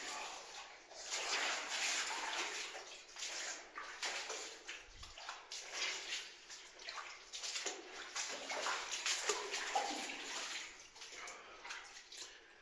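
Footsteps splashing and sloshing unevenly through shallow water and mud in a mine tunnel.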